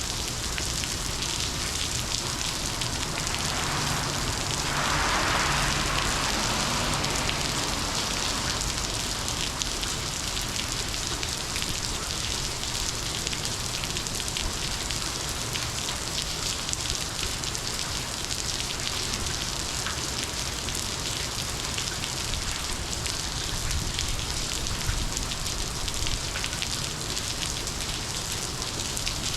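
Monsoon rain falling steadily, with a brief swell in loudness about five seconds in.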